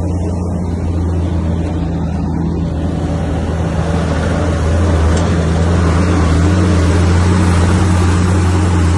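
Heavy diesel engine of earthmoving machinery running steadily with a low hum, growing louder about four seconds in.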